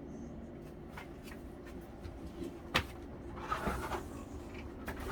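A flexible solar panel being handled. There is one sharp knock a little under three seconds in, then a short rustle, over a steady low hum.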